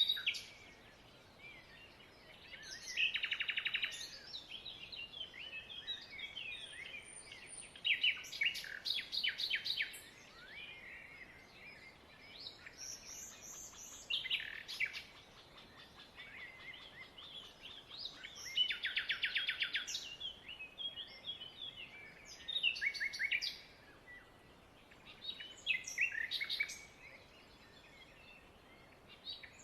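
Small birds chirping and singing in bursts every few seconds, with several fast trilled phrases among the calls.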